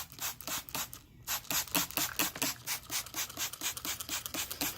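Hand wet sanding of a car's clear coat: sandpaper rubbed back and forth over the paint in quick, even strokes, about five a second.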